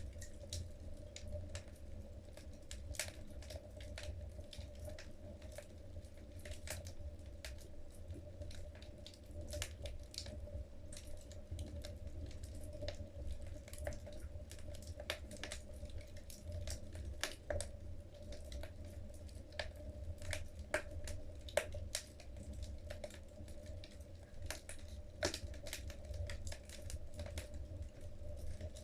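Wood fire burning in a fireplace, logs crackling and popping in irregular sharp clicks over a low steady rumble of the flames.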